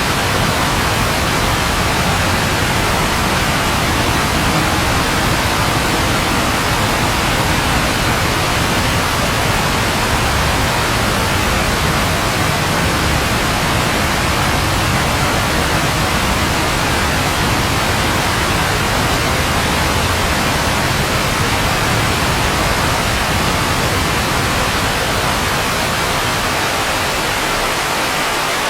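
Steady rain falling, a dense, even hiss with a low rumble underneath that fades near the end.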